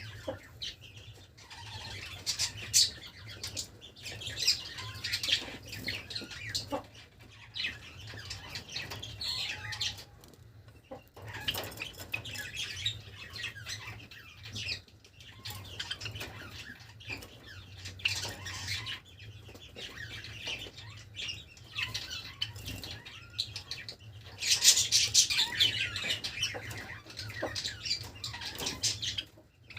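Pet Java sparrows chirping and fluttering, with short high calls and wing flaps on and off and a louder flurry of calls near the end. A steady low hum runs underneath.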